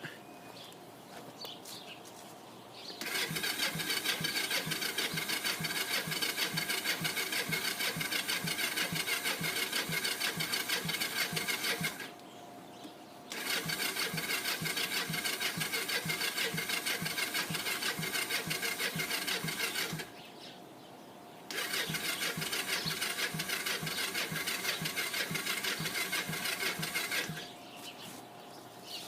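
Electric starter cranking the cold engine of a Kawasaki three-wheeler in three long tries of roughly nine, seven and six seconds, each a steady rhythm of compression strokes, several a second, that never catches. The choke is off because the owner thinks the engine may be flooded, and it fails to start in the cold.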